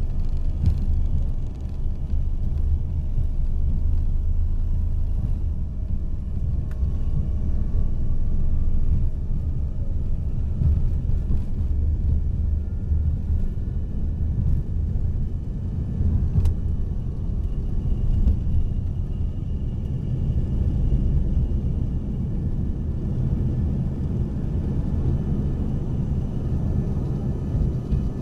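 Steady low rumble inside the cabin of an Embraer ERJ-140 regional jet, from its twin rear-mounted turbofan engines and the airframe, with faint steady whines above it.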